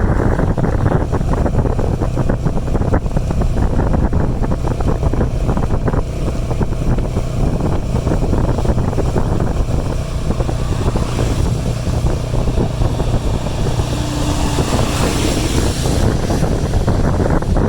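Wind buffeting the microphone over the running engine of a motorbike on the move, a loud, steady rumble and rush. A brighter hiss swells up over a few seconds in the second half.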